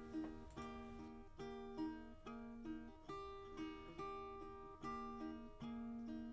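Background music: a plucked guitar or ukulele strumming chords in a steady rhythm.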